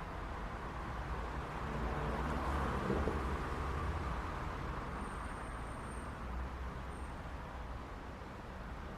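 City street traffic: steady road noise with a low engine and tyre rumble, swelling as a vehicle passes by about two to four seconds in and easing off again.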